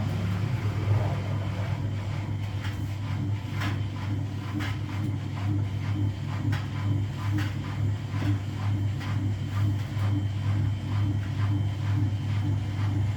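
Washing machine running: a steady low hum with scattered short clicks and knocks.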